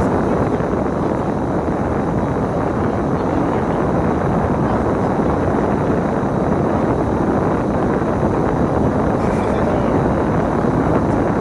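Steady running noise of a bus, engine and road noise together, with no change in pace.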